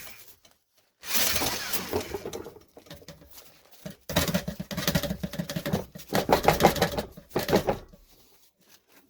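Dryer vent cleaning rods and brush rattling and scraping in the duct as they are worked, in two bursts: a short one about a second in and a longer one from about four to eight seconds in.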